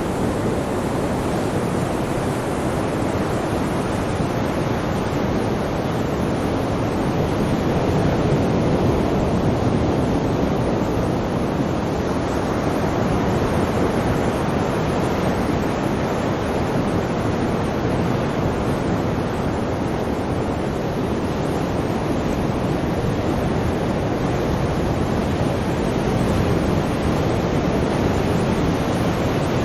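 Sea waves washing in as a steady rush of surf, slowly swelling and easing in loudness.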